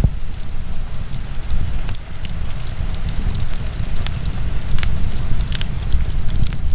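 Wood fire burning in a fireplace: many scattered sharp crackles and pops over a steady low rumble.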